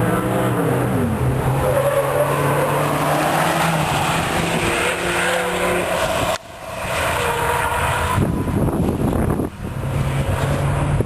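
Competition cars' engines on a race track, slowing for a turn: the engine pitch drops in the first second or two, then holds steady as the cars go through. The sound breaks off abruptly about six and a half seconds in and picks up again with another car.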